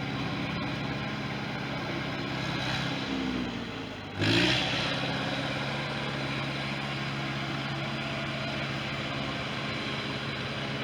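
Engine of a 1973 International 3444 loader tractor running steadily. About four seconds in it sags briefly, then revs up sharply before settling back to a steady run.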